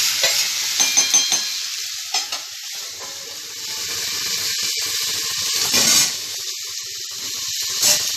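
Food sizzling in hot oil in a pan, a steady hiss, with a few short metallic clinks of a utensil about a second in and two brief louder surges of sizzle later on.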